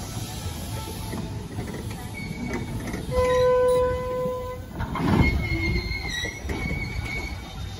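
Slow-moving steam excursion train, a caboose and open-air passenger car, rolling past with a steady rumble of wheels on rail and several drawn-out squeals from the wheels, the loudest about three seconds in. A sharp clank about five seconds in.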